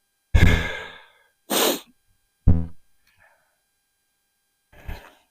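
A man sighing and breathing out hard four times, in short separate gusts.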